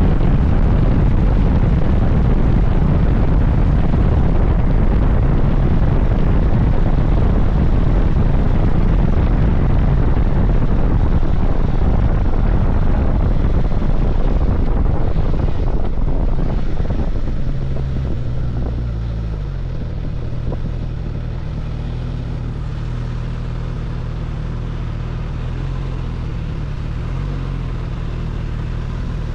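Suzuki GSX-S1000GT motorcycle on the move, its inline-four engine under heavy wind rush on the microphone. About seventeen seconds in, the wind noise dies down and the engine's steady low hum comes through, as at low speed.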